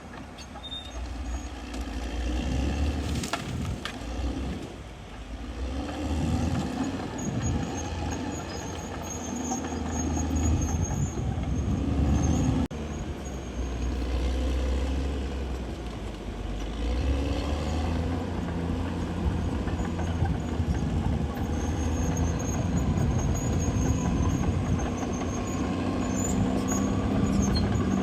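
CAT D6R XL crawler bulldozer's diesel engine running under load, its level rising and falling in waves as the machine works. A faint high-pitched squeal comes and goes, and there is one sharp knock about halfway through.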